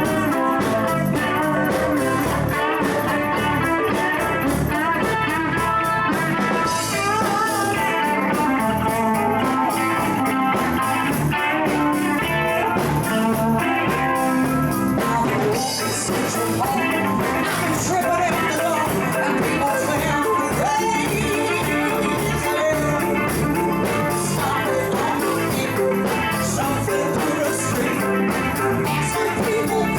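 A live band playing an electric guitar jam at a steady, full level.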